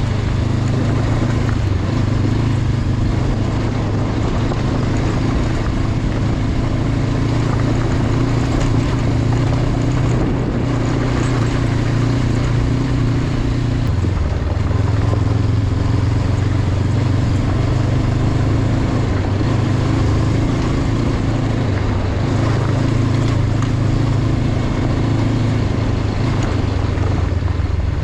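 Honda CB500X's 471 cc parallel-twin engine running steadily under way, its note shifting now and then, over a constant rush of wind and riding noise.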